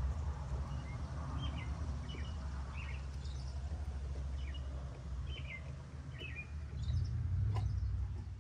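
Small birds chirping in short repeated calls over a steady low rumble, with a sharp click near the end.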